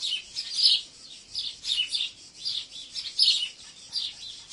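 Small birds chirping: a steady run of short, high chirps, about two or three a second.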